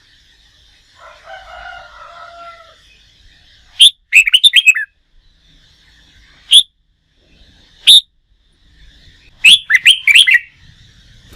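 Red-whiskered bulbul singing: loud bursts of quick, rapid notes about four seconds in and again near ten seconds, with single sharp notes in between. A softer, lower warbling sounds early on.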